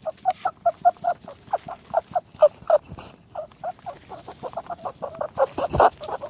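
Rabbit sound effect: a rapid run of short squeaky grunts, about six or seven a second, a little louder near the end.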